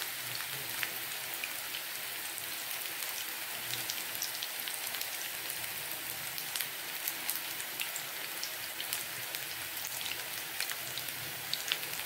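Spice-coated raw banana slices shallow-frying in hot oil in a pan: a steady sizzle with scattered crackles and pops.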